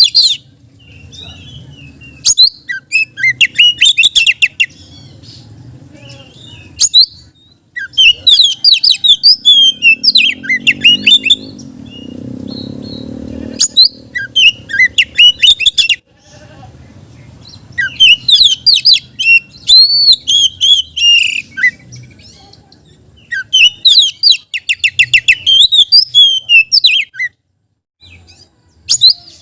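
Oriental magpie-robin singing hard: bursts of rapid, high whistles, trills and sharp notes a few seconds long, with short pauses between them.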